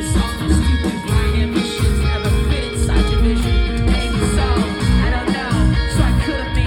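Live rock band playing an instrumental passage: loud electric guitars over bass and drums, with no singing.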